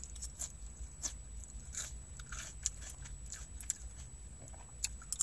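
A mouthful of salad being bitten and chewed close to the microphone: faint, irregular wet crackles and mouth clicks.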